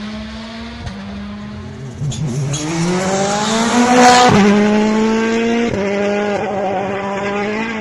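Rally car engine accelerating hard, its pitch rising to a peak about four seconds in, then dropping sharply at a gear change and running on steadily.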